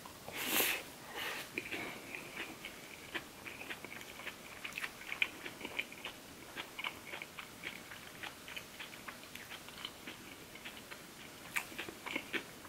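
Close-up chewing of a bite of green onion seafood pancake (pajeon): one loud bite about half a second in, then many small clicks of chewing, with a few louder bites near the end.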